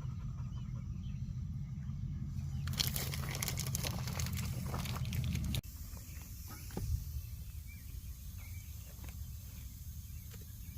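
Hot dogs sizzling on a hot griddle over a low steady hum. A little past halfway the sound cuts off abruptly to a lighter hiss with a few scattered clicks.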